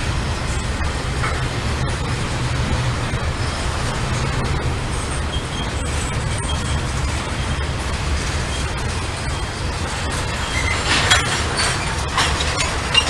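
Norfolk Southern freight train rolling past, a steady low rumble of wheels on rail, with a few short sharp metallic squeals or clanks near the end.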